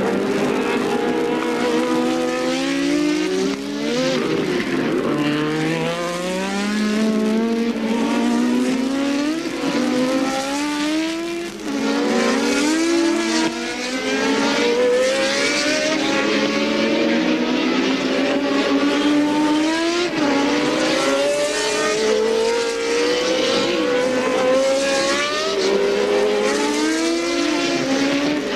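1983 Formula One cars racing, several engines heard at once, each rising in pitch and dropping back again and again through gear changes.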